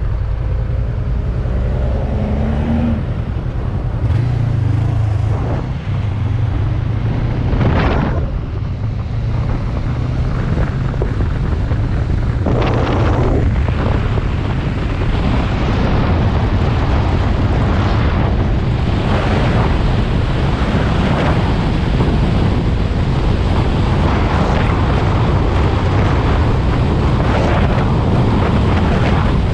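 Honda CB500X parallel-twin engine running while the motorcycle is ridden, with wind rushing over the microphone.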